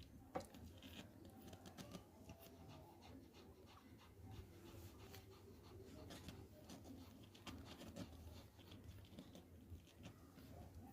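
Faint rustling and scratching of four-day-old toy Pomeranian puppies moving about, with a few soft, thin squeaks in the first few seconds.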